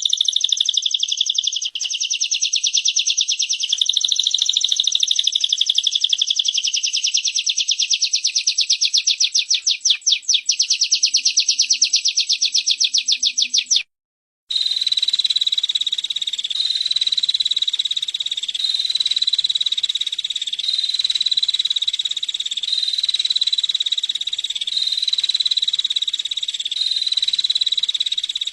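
Recorded calls of a female prenjak (prinia): a very fast, high-pitched rattling trill, cut off briefly about halfway through, then a high buzzy call repeated over and over at an even pace, like a loop.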